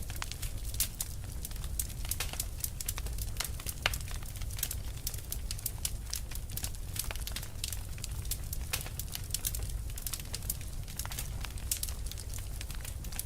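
Burning fire crackling: many small, irregular pops and snaps over a steady low rumble of the flames.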